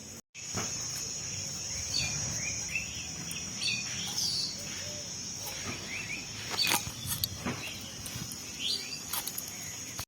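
Rural outdoor ambience: a steady high-pitched insect drone with birds chirping in short calls, and a few sharp clicks.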